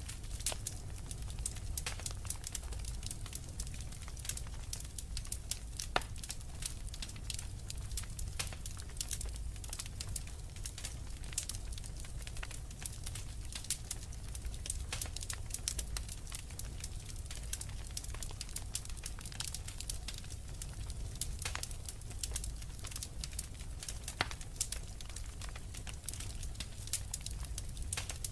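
Wood fire crackling in a fireplace: a dense run of small crackles with a few sharper pops, over the steady low rumble of the burning.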